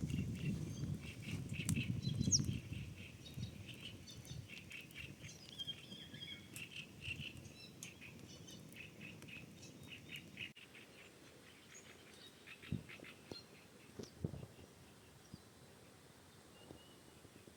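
Small birds chirping and twittering in a quick, irregular series, with a low rumble in the first few seconds. After about ten seconds the sound drops off suddenly, leaving only occasional faint chirps and a few soft knocks.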